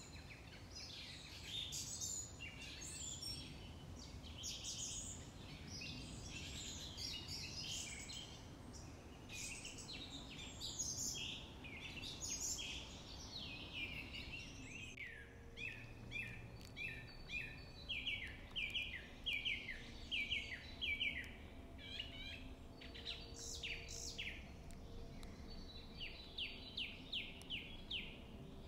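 Birds singing and calling over a faint steady background noise. From about halfway on, one bird repeats quick downward-sliding notes about twice a second, with pauses.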